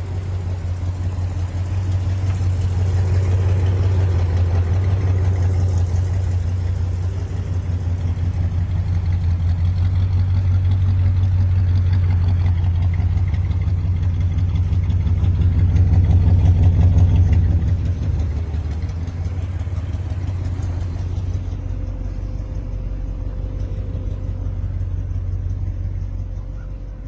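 1969 Cadillac DeVille's 472 cubic-inch V8 engine running with a fast, even low pulse. It swells in level to its loudest about two-thirds of the way through, then settles back to a steadier, quieter run.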